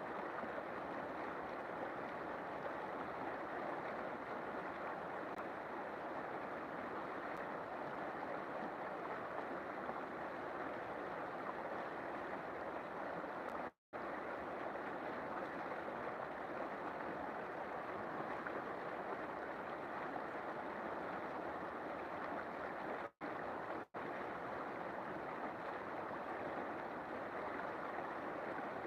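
River water flowing in a steady rush. The sound drops out to silence for an instant about halfway through and twice more near the end.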